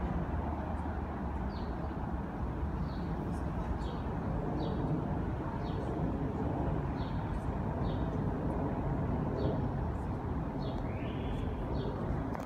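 A bird repeating short, high, downward-sliding chirps about once a second, with one longer call near the end, over a steady low rumble.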